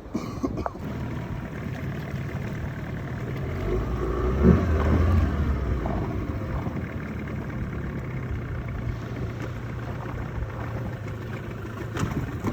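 A motorised canoe's engine running steadily with a low hum, swelling louder about four to five seconds in.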